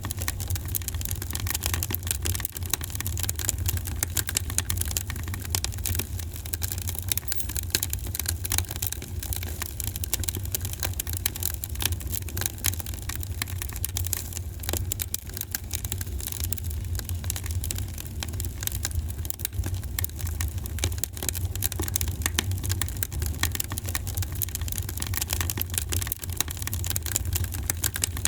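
Wood fire burning in a fireplace: a steady rush of many small crackles and pops over a low rumble.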